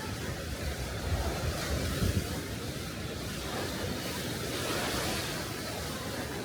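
Sea waves washing onto a beach, one wash swelling up and falling back about two-thirds of the way through, with wind rumbling on the microphone.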